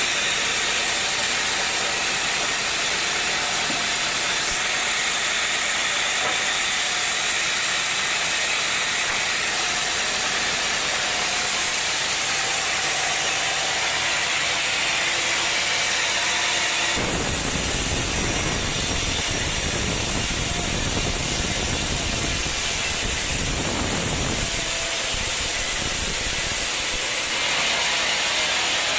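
Sawmill machinery running with a steady hiss. Partway through it turns abruptly deeper and heavier for about ten seconds, then goes back to the lighter hiss just before the end.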